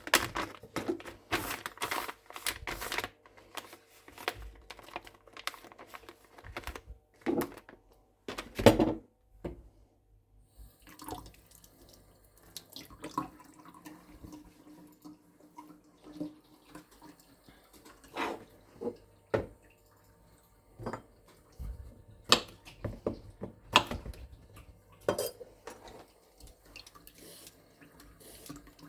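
Dishes and utensils clattering at a kitchen sink. A quick run of clinks and knocks comes first, then a single heavy knock about nine seconds in, then scattered clinks over faint running water.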